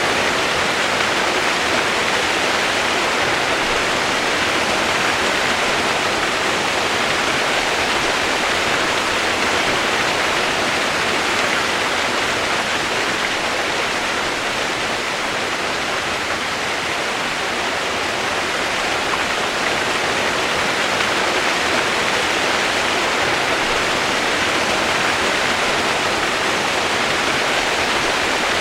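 Steady rain sound used as white noise: a dense, even hiss with no separate drops standing out and no change in level.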